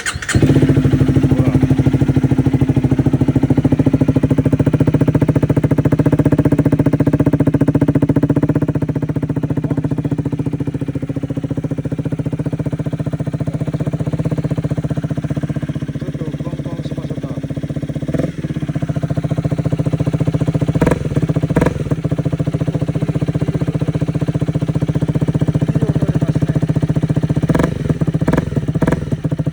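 Honda Rebel 250 motorcycle engine starting and then idling steadily through an aftermarket muffler. A few short, sharp sounds come in the later part.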